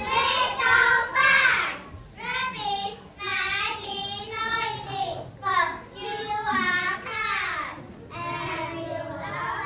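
Children's high voices singing in a run of short, wavering phrases.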